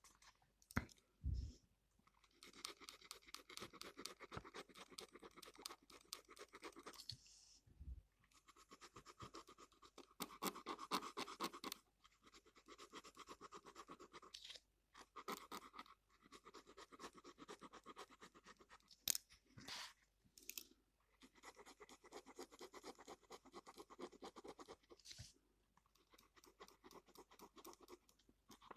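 Gel pen scribbling on paper: faint, rapid back-and-forth strokes in runs of a few seconds with short pauses between them, and a few sharp clicks.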